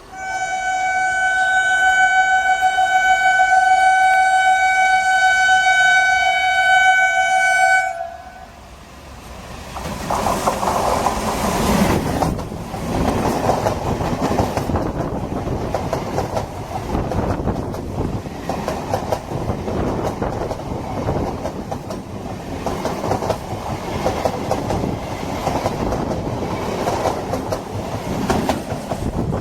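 Indian Railways train sounding one long steady horn blast for about eight seconds. A moment later the train passes close by, its wheels rumbling and clattering over the rail joints.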